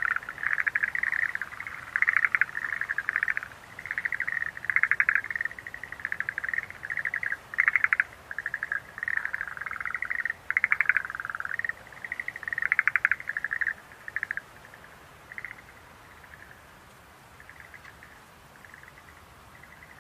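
Schlegel's green tree frogs calling: several overlapping runs of short rapid trills, which thin out and grow faint about two-thirds of the way through.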